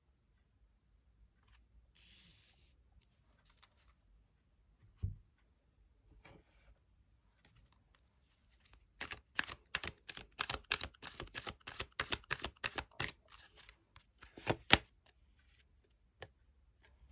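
Tarot cards being handled and shuffled: scattered soft card sounds and a low thump, then a quick run of sharp card flicks and slaps lasting about six seconds, ending in one louder slap.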